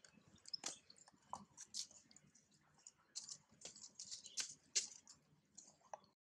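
Macaque biting and chewing soft mango flesh: faint, irregular wet clicks and smacks, the sharpest a little under five seconds in.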